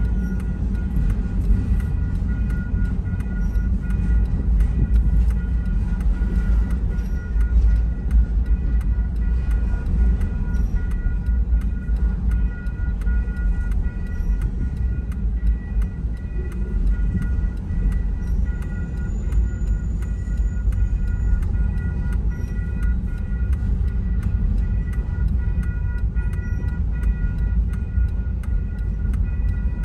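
Double-stack container train rolling steadily past a grade crossing, heard from inside a stopped car: a constant low rumble with no breaks, with a few faint steady high tones above it.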